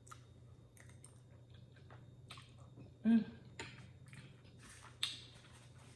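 Close-miked chewing of a mouthful of noodles, with wet mouth clicks and smacks and a short closed-mouth hum about three seconds in.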